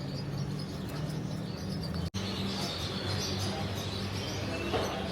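Birds chirping over a steady low hum, with a sudden brief dropout about two seconds in.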